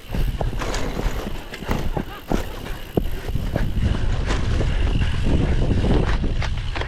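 Cyclocross bike rattling and clattering over rough ground, with irregular clicks and knocks over a steady low rumble of wind buffeting the microphone.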